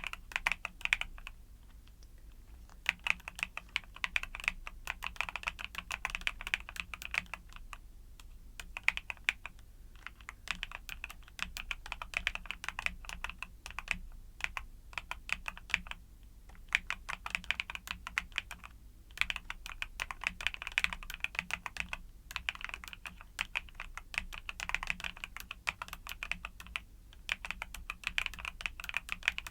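Mechanical keyboard with YUNZII Cocoa Cream switches being typed on in quick runs of keystroke clicks, broken by short pauses every few seconds.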